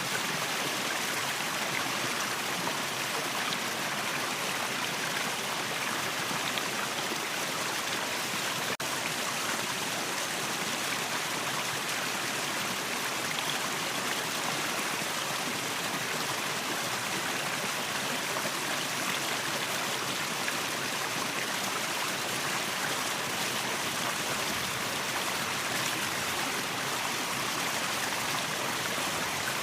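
Waterfall: water rushing and splashing in a steady, unbroken hiss.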